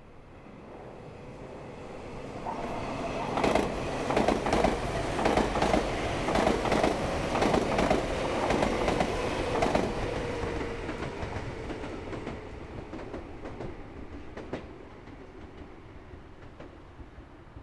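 A Meitetsu Nagoya Main Line train passing by. It grows louder, then gives a rapid clatter of wheels over rail joints over a steady hum, loudest from about three to ten seconds in, and fades away as it recedes.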